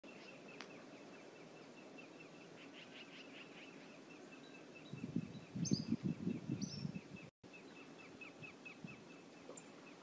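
Outdoor river-bank ambience: small birds chirping in a steady run of short high notes, about four a second, with two higher falling calls near the middle. A louder, irregular low rumble comes between about five and seven seconds, and the sound drops out for an instant just after.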